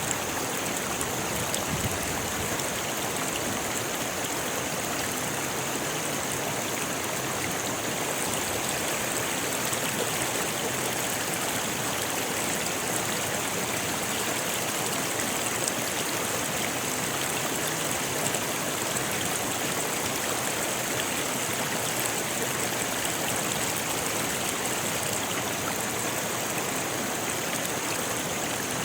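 Rocky river flowing over stones: a steady rushing of water, unbroken throughout.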